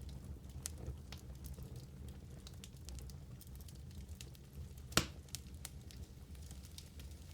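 Wood fire crackling in a fireplace: a steady low rumble of the flames with scattered small crackles and one loud, sharp pop about five seconds in.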